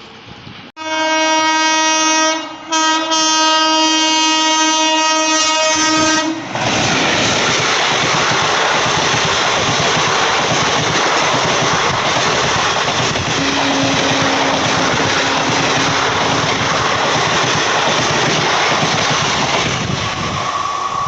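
Indian Railways EMU local train sounding its horn in two blasts, a short one and then a longer one, then rushing past at speed with loud, steady wheel and rail noise.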